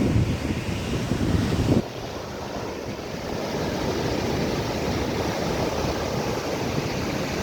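Sea surf washing steadily on the shore, with wind buffeting the microphone as a low rumble that cuts off suddenly about two seconds in.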